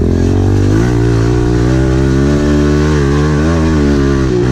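Pit bike engine running close by, its pitch rising a little in the first second and then holding with small rises and dips as the throttle is worked.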